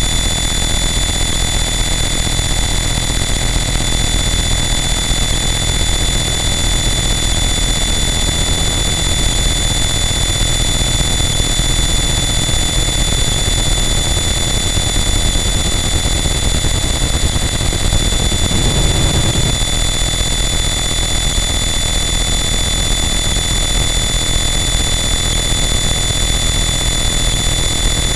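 Harsh noise wall: a dense, unchanging wall of distorted static that fills the whole range, with steady high whistling tones riding on top and a brief low swell about two-thirds of the way through.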